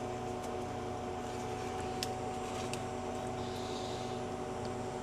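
Steady electric machine hum made of several held tones over a low pulsing drone, with a few faint ticks.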